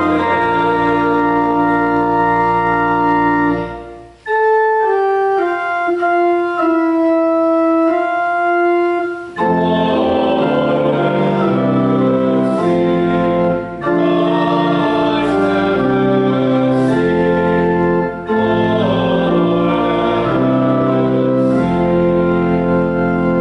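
Church organ playing held chords in phrases, with brief breaks between phrases. From about 4 to 9 seconds in, a quieter, higher passage without the deep bass notes, after which the full chords with bass return.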